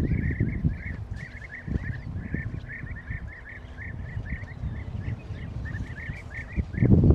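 Birds calling in a steady string of short repeated notes, several a second, over a low, uneven rumble of noise that swells loudest near the end.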